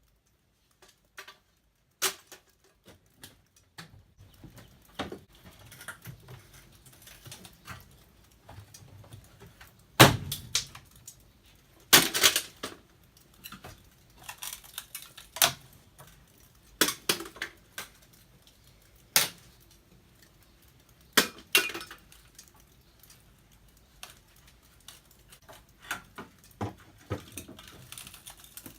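Hand work on an old aluminum window frame during tear-out: irregular sharp knocks, clicks and metal-and-glass clatters, with quieter scraping and rattling between them.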